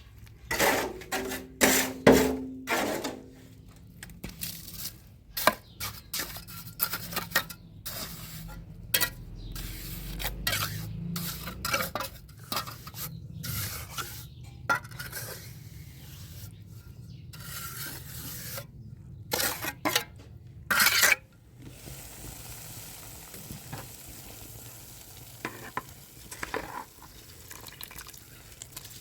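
A utensil clinking and scraping against a cooking pot, with many sharp knocks, the loudest near the start and a few seconds before the clatter stops. After that, food sizzles in the pot with a steady hiss.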